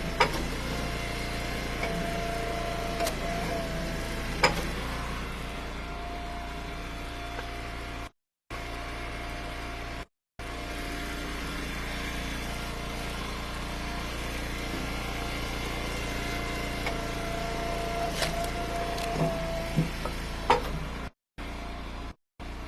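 A steady mechanical drone like a small engine running at idle, with a few sharp knocks; the audio cuts out completely for short moments several times.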